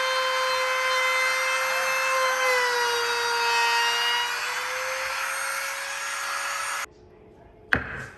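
A high-speed electric power tool whining steadily as it works wood, its pitch sagging for a second or two under load partway through. The sound cuts off suddenly near the end, and a single sharp knock follows.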